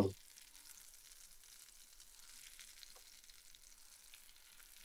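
Faint, steady sizzle of burger patties sauteing in bone broth in a frying pan, with a few small crackles.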